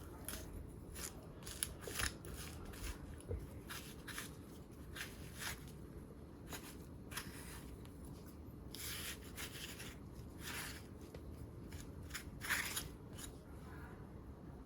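Irregular crisp cuts and scrapes from preparing a bitter gourd by hand, a few of them longer scraping strokes, the loudest near the end.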